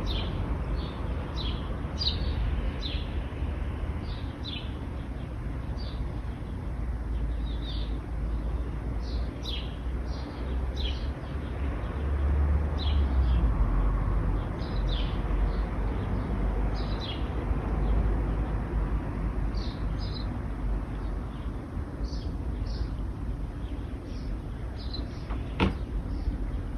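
Small birds chirping, short high calls repeated every second or so, over a steady low rumble of road traffic that swells about halfway through as a vehicle passes. A single sharp click near the end.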